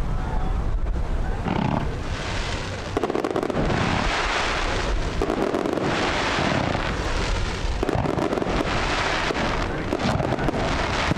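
Fireworks display: many overlapping shell bursts and crackling in waves, with thicker crackle clusters about two seconds in and again near the end.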